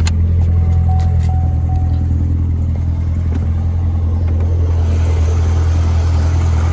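Chevrolet Corvette Z06's LT4 supercharged 6.2-litre V8 idling steadily with a low hum. A few clicks come near the start, and a short run of high beeps sounds between about half a second and two seconds in.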